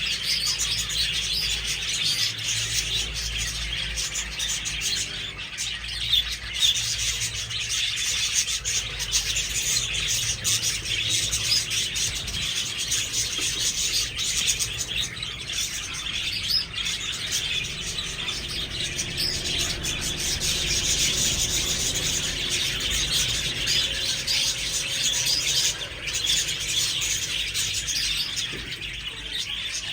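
A flock of budgerigars chattering and chirping continuously, many birds calling over one another in quick warbles and chirps.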